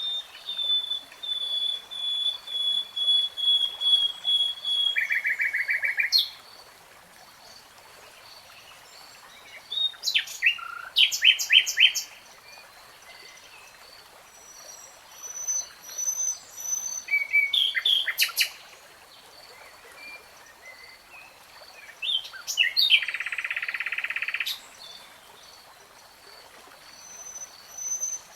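A songbird singing in separate phrases of quick repeated whistled notes and fast buzzy trills, each a few seconds long, with pauses of a few seconds between them.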